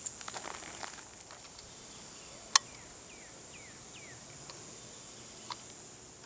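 Insects buzzing steadily at a high pitch, with light rustling in the first second. A single sharp click comes about two and a half seconds in, then a bird gives four quick down-slurred notes.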